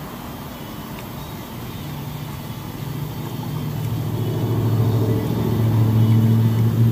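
A motor vehicle's engine hum that grows steadily louder over the last few seconds.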